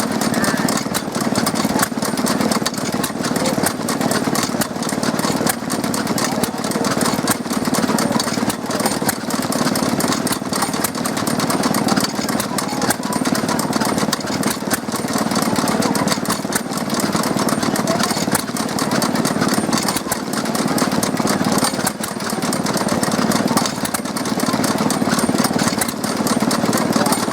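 Stewart Little Wonder stationary engines of about 1907–1910 running steadily, a fast, even run of firing beats.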